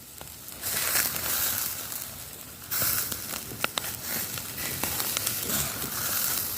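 A bird barbecuing over the heat, its meat sizzling and crackling with scattered small sharp pops. The hiss swells about a second in and again near three seconds.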